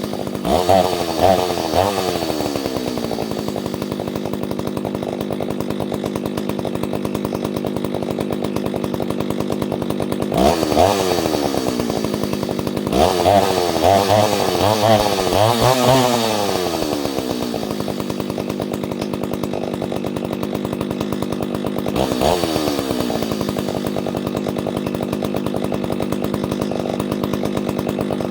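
Ported Solo 670 two-stroke chainsaw idling steadily, blipped to high revs several times, each time falling back to idle: a few quick blips near the start, one about ten seconds in, a run of blips in the middle, and one more later. The carburettor has just been re-tuned, and the owner thinks it still needs a new carburettor diaphragm.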